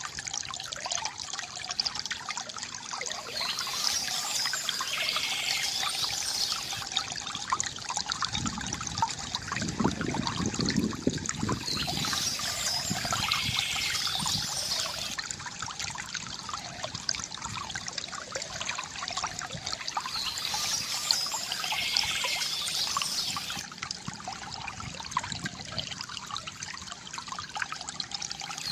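Water trickling and pouring steadily from a bamboo fountain, growing fuller and deeper for a few seconds near the middle. Birds chirp in short spells about every eight seconds.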